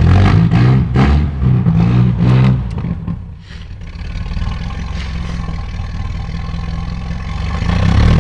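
A car's engine heard from inside the cabin, revved up and down in several quick rises over the first few seconds, then running steadily and more quietly, and picking up again near the end.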